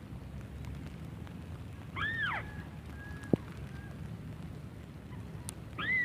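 Two calls of a white-browed crake, each an arched note that rises and then falls, about two seconds in and again at the end, with a single sharp click between them.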